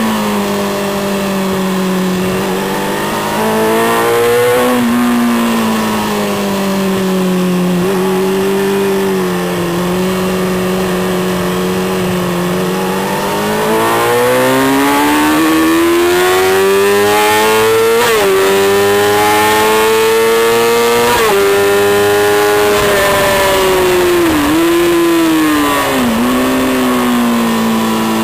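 Racing motorcycle engine heard from on board at full song, its pitch climbing through the revs and dropping sharply twice as it shifts up, then falling back with short dips as the rider slows for corners.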